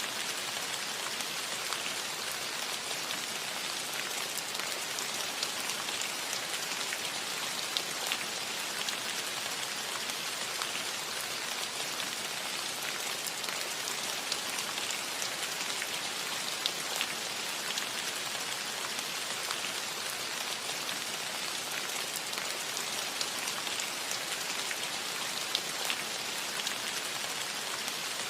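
Steady rain falling on a metal roof: an even hiss with many small, sharp drop hits scattered through it.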